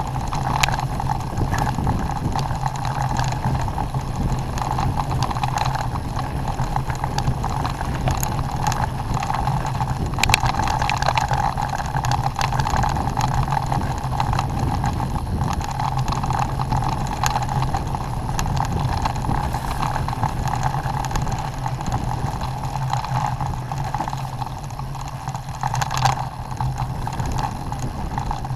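Engine of a small off-road vehicle running steadily under way, with occasional knocks and rattles over rough ground.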